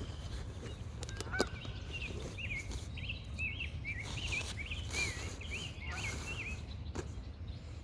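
A bird singing by a river: a run of quick, whistled up-and-down notes lasting a few seconds, over a steady low rumble.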